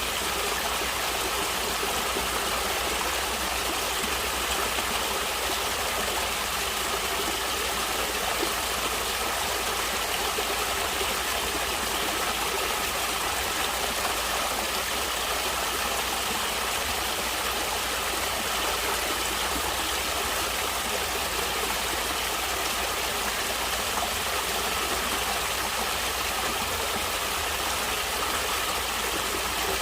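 Natural running water flowing steadily, an even, unbroken rush.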